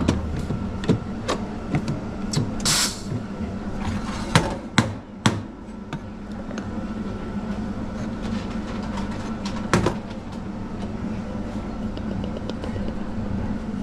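Café counter work sounds: scattered knocks, clicks and clatter with a few sharper bangs near the middle, and a brief hiss about two and a half seconds in, over a steady low machine hum.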